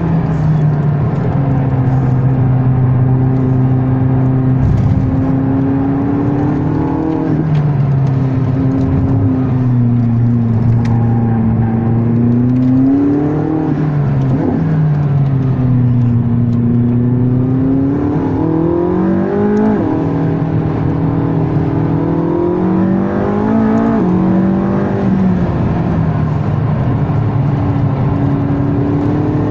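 McLaren 675LT's 3.8-litre twin-turbo V8, heard from inside the cabin while driven hard on track. The engine note climbs in long pulls and drops off sharply several times as the car accelerates, changes gear and brakes for corners.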